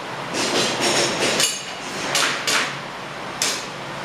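Airsoft pistol firing during a shooting stage: about six or seven sharp cracks at irregular spacing, some close together in pairs.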